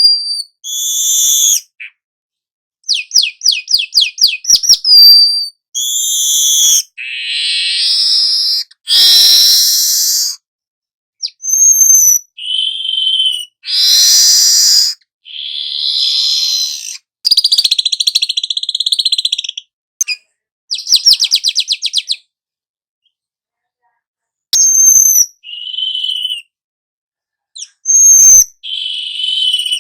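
Young manyar weaver singing a long, varied song of fast trills, buzzy phrases and short whistles, high-pitched, with abrupt silent gaps between phrases.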